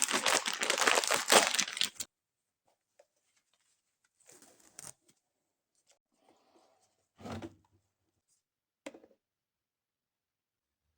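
Loud crackling, tearing noise, like material being torn or crumpled, that stops abruptly about two seconds in. After that it is near quiet, with a few faint knocks and rustles.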